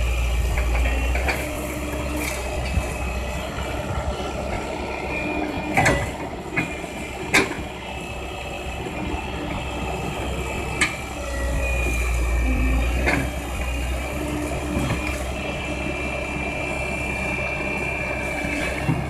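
Komatsu excavator's diesel engine and hydraulics working, with a deep rumble that swells at the start and again about eleven seconds in, a steady hydraulic whine, and a few sharp metallic clanks of the bucket and crushed rock.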